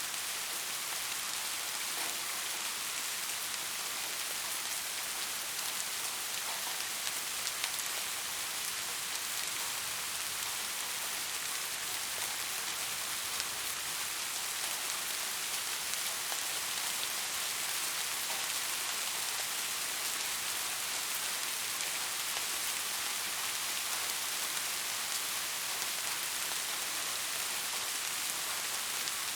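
Steady rain falling: an even hiss, brightest in the high range, with faint scattered drop ticks.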